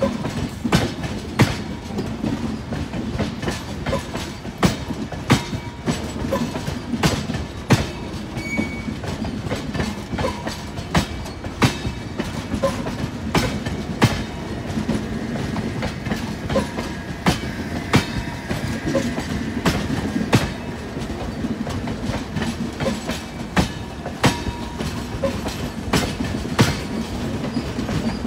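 Indian Railways express passenger coaches rolling past, their wheels clacking over rail joints with sharp clicks about once a second over a steady low rumble.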